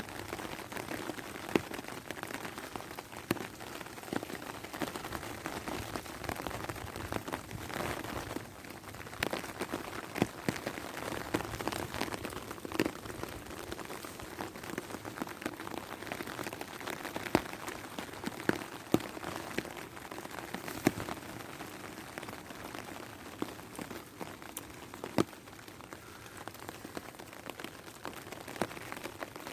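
Steady rain falling, with frequent sharp, separate drop hits standing out loudly above it.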